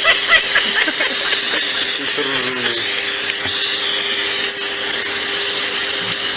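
Steady whirring of a small motor with a constant hum. Short pitched voice-like sounds come over it during the first three seconds.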